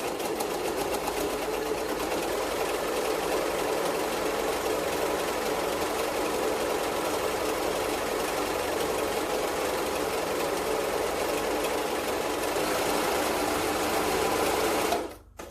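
Serger (overlock sewing machine) running steadily at speed as it stitches fabric, starting at once and stopping abruptly shortly before the end.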